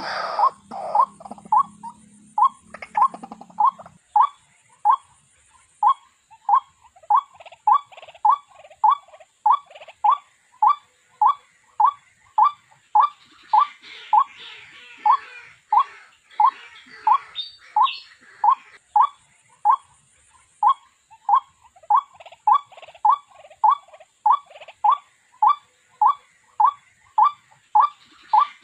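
White-breasted waterhen's call, played as a trapping lure: a single short note repeated very evenly, about one and a half times a second. Louder, overlapping calls fade out in the first second.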